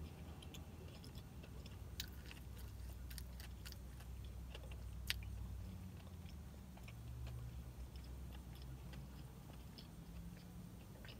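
A person chewing a crispy chicken biscuit with the mouth closed: soft wet mouth clicks and smacks, with two sharper clicks about two and five seconds in, over a low steady hum.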